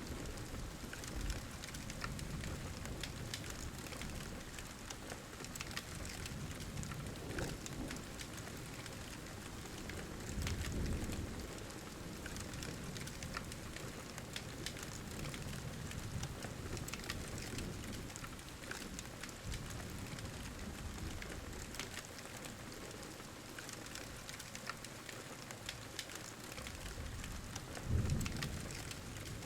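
Steady rain ambience with a crackling fire, its small pops scattered through. Soft low thunder rumbles about a third of the way in and again near the end.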